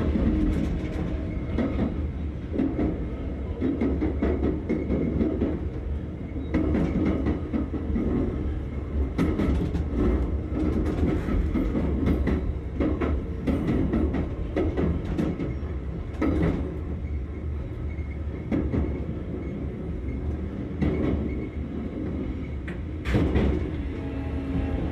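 JR 383 series electric train's VVVF inverter and traction motors humming with steady tones as the train runs in towards its stop, under a continuous running rumble. Sharp wheel clicks over rail joints recur irregularly, and the motor tones change near the end.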